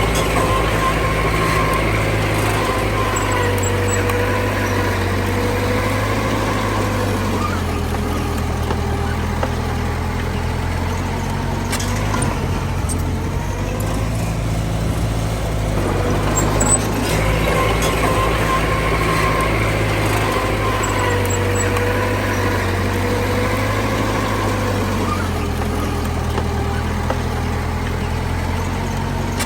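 Heavy diesel earthmoving machinery, a dump truck and a bulldozer, running continuously. The engine note shifts in steps, and a wavering whine swells and fades twice.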